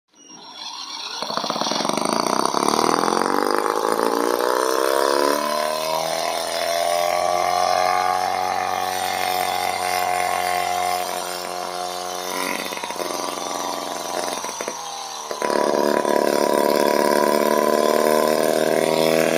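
Holt H76 5cc horizontal twin-cylinder overhead-valve gasoline model engine running. Its pitch rises as it speeds up over the first few seconds, then holds steady. About three-quarters of the way through it becomes suddenly louder and keeps running.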